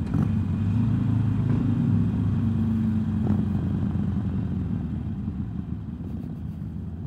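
Harley-Davidson motorcycle's V-twin engine running steadily while riding at road speed, growing a little quieter in the last two seconds.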